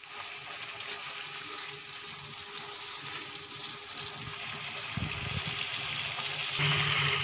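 Sliced carrots frying in hot ghee in a wok, a steady sizzle with the spatula scraping and stirring through them. The sizzle slowly grows louder and steps up near the end.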